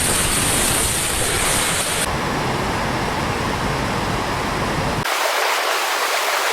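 Rushing floodwater, a loud steady rush of water. Its character changes abruptly about two seconds in and again about five seconds in, ending thinner and hissier with the low rumble gone.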